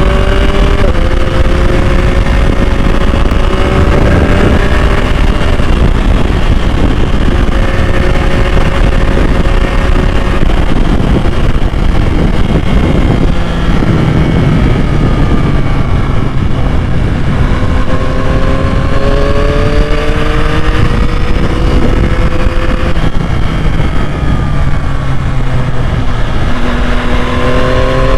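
2021 Yamaha MT-09's 890 cc inline three-cylinder engine under way, rising in pitch several times as it accelerates through the gears, over a steady rush of wind.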